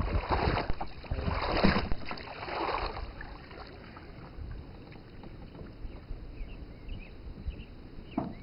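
Canoe paddle strokes swishing through the water, three strokes in the first three seconds, then quieter water and small knocks as the boat glides, with light wind on the microphone.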